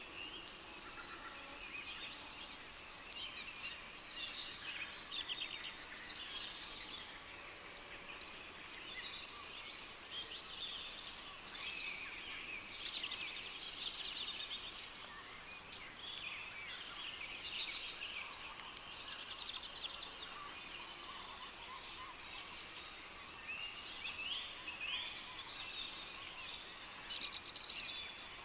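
Rainforest ambience: a cricket chirping in a steady, evenly spaced high pulse, with scattered bird calls and a brief high trill about seven seconds in.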